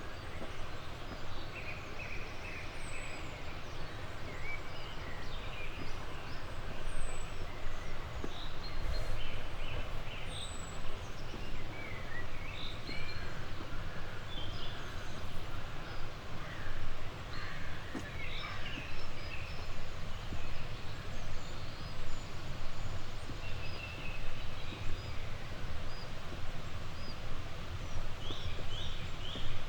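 Several birds singing and calling over a steady outdoor background noise. For the first ten seconds, one bird gives a high, thin falling note about every four seconds.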